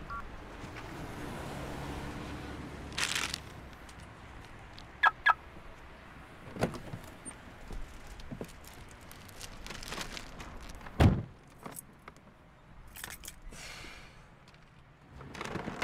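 Sounds of a man getting into a parked car. Two short high chirps come about five seconds in, then handling knocks and rustles, and the car door shuts with a heavy thud about eleven seconds in.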